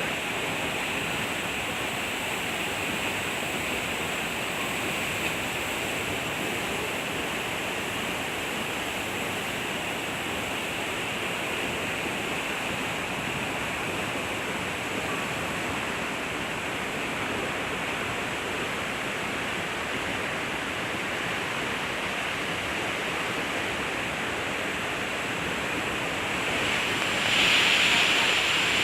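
Steady rushing roar of a large waterfall's falling water, swelling louder and brighter near the end.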